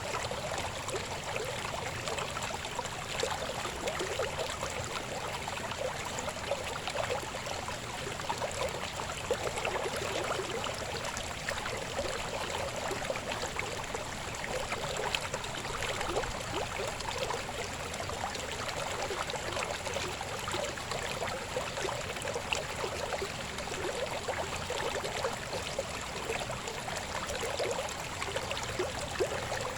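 Shallow river babbling and gurgling steadily over rocks, a continuous rushing water sound.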